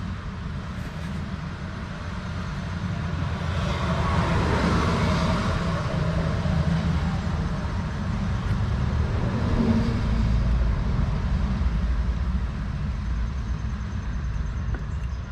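Road vehicle noise: a steady low rumble that swells about four seconds in and stays up, like traffic passing.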